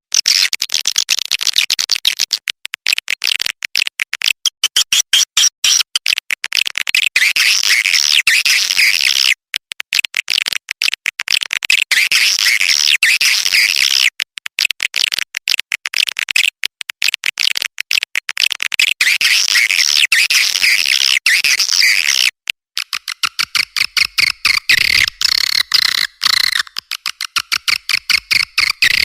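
Edible-nest swiftlet call recording: a dense, unbroken run of rapid high chirps and twittering, the lure sound played to draw swiftlets into a bird house. About two-thirds of the way in it switches to a different, more evenly pulsed call.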